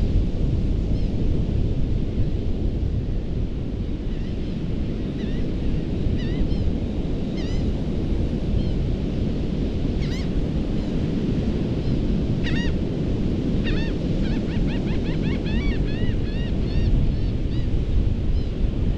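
Surf washing onto a sandy beach, with wind rumbling on the microphone. Short, high bird chirps sound over it, scattered at first and then in a quick run about two-thirds of the way in.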